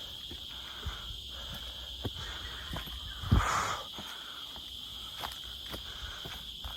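Steady high-pitched buzz of insects, with irregular footsteps crunching on dry ground about once or twice a second and one louder rustle about halfway through.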